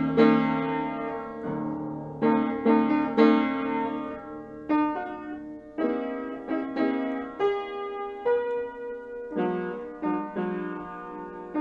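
Piano played slowly by an amateur: chords and notes struck one after another, about one or two a second, each ringing and fading.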